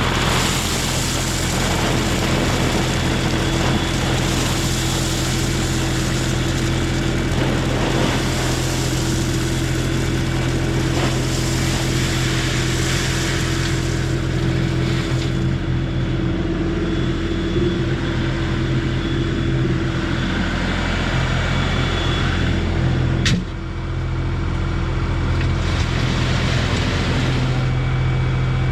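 LS MT240 compact tractor's diesel engine running steadily at a constant speed while working. A single sharp knock comes about three-quarters of the way through.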